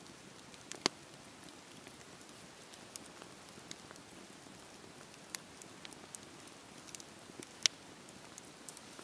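Wood fire in a fireplace crackling: a steady soft hiss with scattered sharp pops. The two loudest pops come about a second in and late on.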